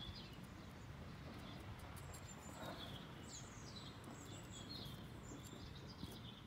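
Faint outdoor ambience: birds chirping, with a few quick falling calls about three seconds in, over a steady low background rumble.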